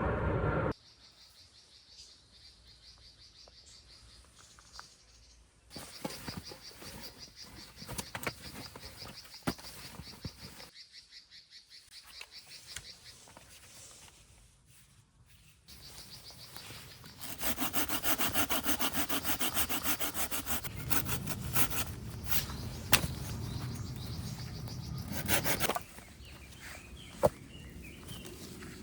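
Hand saw cutting a branch for firewood, in fast back-and-forth strokes. The strokes are quieter in the first part and louder for several seconds after the middle, then stop suddenly.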